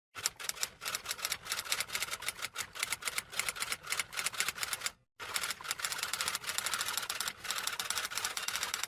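Typewriter keys clacking in a fast, uneven run of sharp clicks, with a short break about five seconds in.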